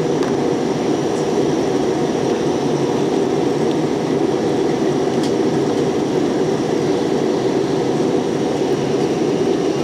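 Steady low rumble of engine and airflow noise inside an airliner cabin in flight.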